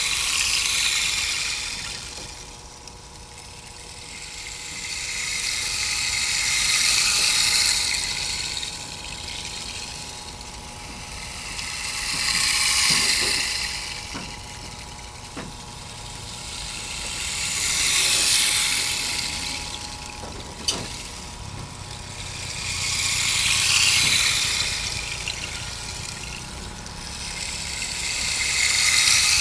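Sound-art soundscape: a hiss that swells and fades about every five to six seconds, over a faint steady hum, with a few faint clicks.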